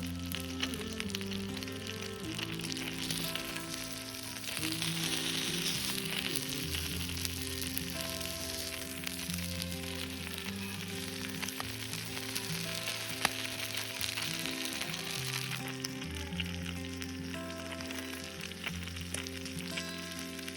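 Food frying and sizzling, over background music with steady held notes and a bass line. The sizzle grows louder about four seconds in and eases off again near the end, with one sharp tick around two-thirds of the way through.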